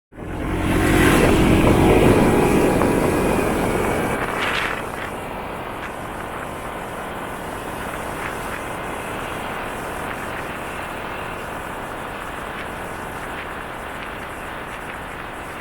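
Motorcycle on the road: the engine is loudest for the first four or five seconds, then it settles into a steady rush of engine and wind noise while cruising.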